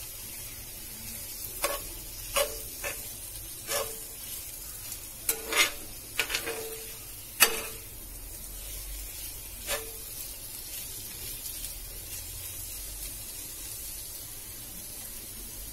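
Liver pieces frying in spiced yogurt masala in a cast-iron pan, sizzling steadily while a metal spoon stirs them, with about ten sharp clinks of the spoon against the pan, the loudest about seven seconds in. The last few seconds hold only the sizzle.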